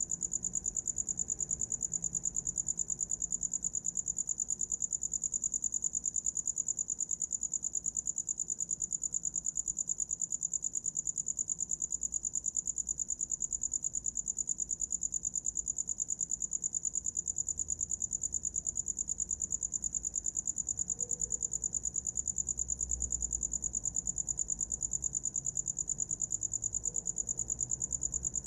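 A cricket singing a continuous high trill of rapid, even pulses, with no break.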